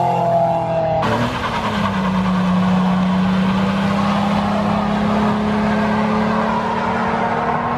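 Car engine held at high, steady revs for a burnout, over a dense hiss. About a second in, an engine note with slowly falling pitch breaks off sharply into the steady held note.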